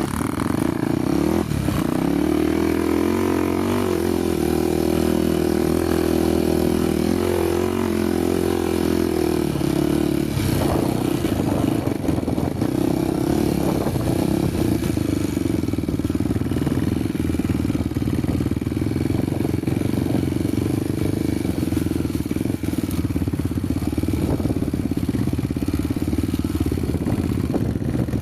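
Honda motorcycle engine running steadily as the bike is ridden along a dirt trail, its pitch holding fairly even throughout.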